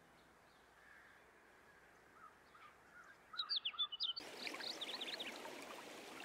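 Faint birdsong: short chirps from about two seconds in, then a cluster of sharper, higher calls around three and a half seconds, followed by more chirping over a steady hiss.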